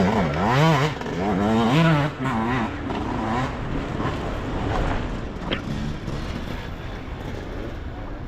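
Enduro motorcycle engine revving hard, its pitch rising and falling in quick throttle blips for about three seconds, then dropping lower and fading away.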